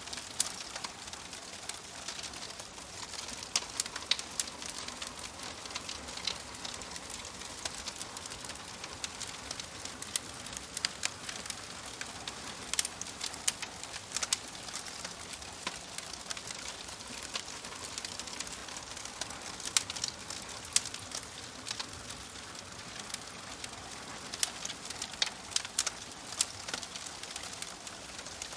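Wood fire crackling in a fireplace: irregular sharp pops and snaps, some in quick clusters, over a steady soft hiss.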